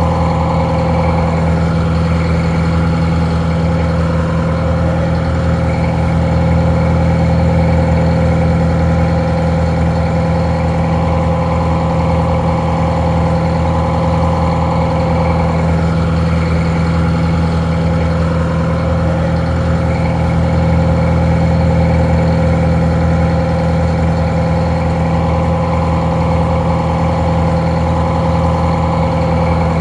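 Detroit Diesel 4-71 two-stroke diesel engine idling steadily, slightly muffled.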